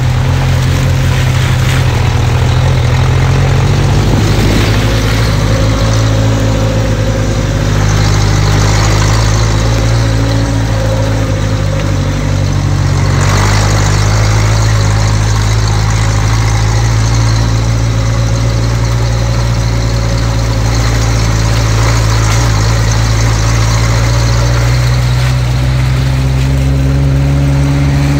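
Engine of an off-road 4x4 running at steady low revs as it crawls through wet mud, with tyre and mud noise over it; the revs rise slightly near the end.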